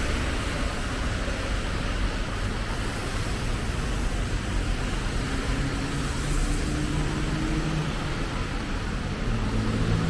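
Road traffic on a wet street in the rain: a steady hiss over a low rumble, with a vehicle engine's hum coming up in the second half.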